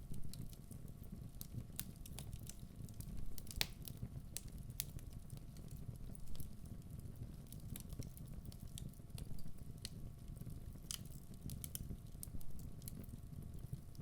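Wood fire burning in a fireplace: a steady low rumble of the flames with frequent sharp crackles and pops from the burning logs, a few of them louder, around four seconds in and again near eleven seconds.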